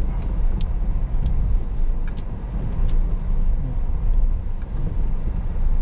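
Car driving slowly over a rough, rocky off-road track: a steady low rumble of engine and tyres, with scattered small knocks and clicks from stones and the car's body and suspension jolting.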